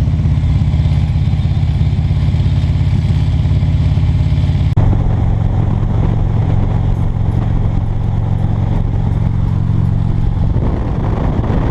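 Harley-Davidson motorcycle engine running steadily while riding, with a fast low pulsing beat. The sound changes abruptly about five seconds in, then carries on at a similar steady pace.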